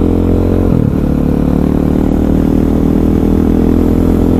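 KTM 500 EXC's single-cylinder four-stroke engine running steadily under way, with a short break in the engine note about a second in, over wind noise.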